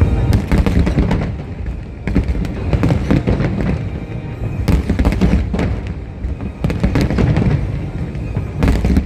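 Aerial fireworks bursting in quick succession, a steady run of bangs and crackles with deep booms, with music playing over them.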